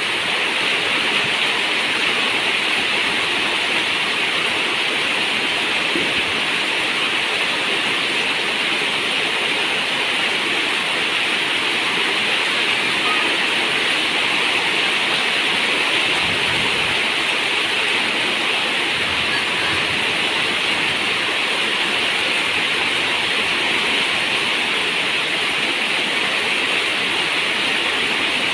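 Steady heavy rain on a zinc roof: a dense, even hiss with no separate drops standing out.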